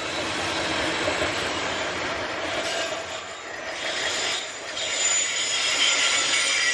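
Railway cars rolling past on the track, a steady rumbling clatter of steel wheels on rails, with a high wheel squeal coming in more strongly near the end.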